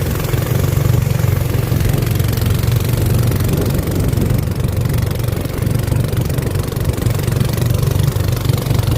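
A boat's engine running steadily at an even pace, its low drone unbroken.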